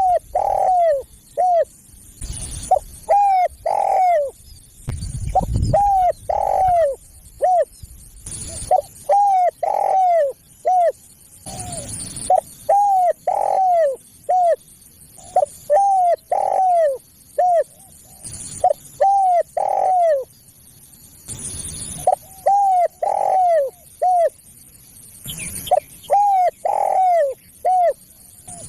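Spotted dove (tekukur) cooing: the same phrase of several short, falling coos repeated about every three seconds.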